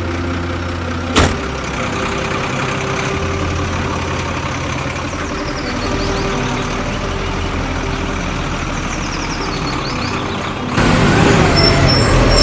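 Truck engine running steadily, with a sharp click about a second in. A louder, hissing sound with high tones joins near the end.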